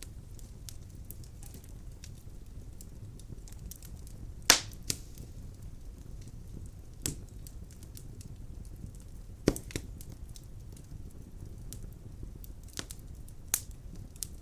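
Wood fire burning in a fireplace: a steady low rumble of flames with frequent small crackles and a few sharp louder pops, the loudest about four and a half and nine and a half seconds in.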